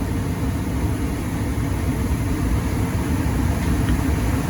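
Residential furnace running on a heat cycle: steady blower and airflow noise with a low hum.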